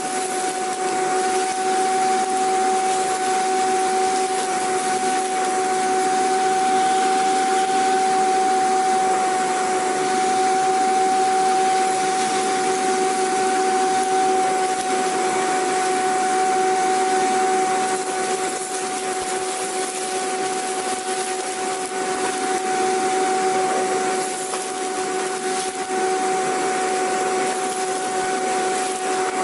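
Vacuum cleaner running steadily: a continuous whooshing motor noise with a steady whine, dipping slightly in loudness about two-thirds of the way through.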